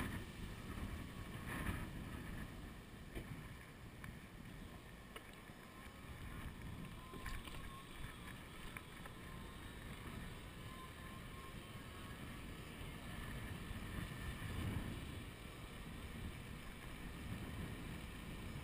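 Wind buffeting a chest-mounted GoPro's microphone on a moving e-bike: an uneven low rumble of wind noise.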